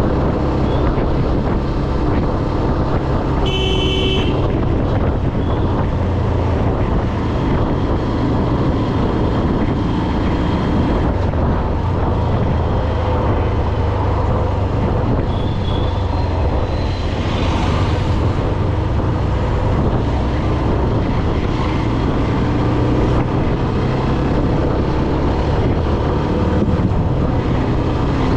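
A road vehicle driving, with a steady engine rumble, road noise and wind on the microphone. About four seconds in there is one short horn blast.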